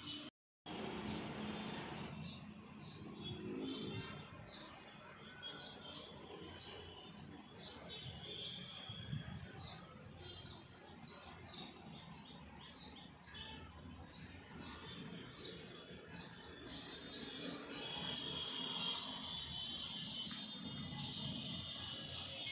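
A small bird chirping over and over: short, sharply falling high chirps, about three every two seconds, starting about two seconds in.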